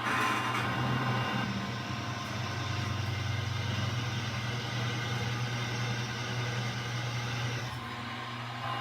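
Milling machine spindle running at about 500 RPM while a drill bit cuts into quarter-inch hot-rolled steel plate lubricated with cutting oil: a steady motor hum under a rougher cutting noise. The sound is brighter in the first second, and the level dips briefly near the end.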